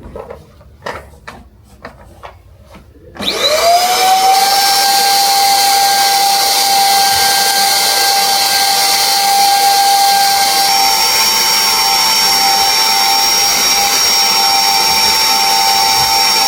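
A few light knocks and clatters, then about three seconds in a vacuum cleaner switches on: its motor whine rises quickly and settles into a loud, steady running whine.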